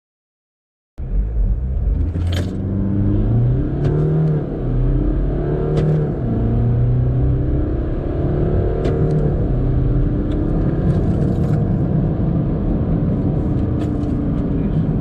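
BMW F30 320d's four-cylinder turbodiesel accelerating hard from a standstill. Its note climbs through each gear and drops back at several upshifts, then holds steadier at speed. It starts about a second in, after a brief cut to silence.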